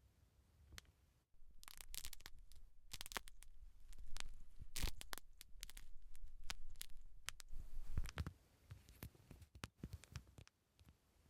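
Close-miked crackling and scratching of hair and scalp being handled. It comes after about a second of quiet, runs as a dense series of sharp clicks and rustling strokes, and thins to scattered clicks near the end.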